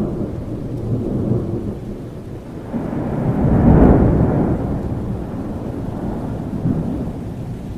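Thunderstorm: rolling thunder over steady rain, the rumble swelling to its loudest about halfway through and then slowly dying away.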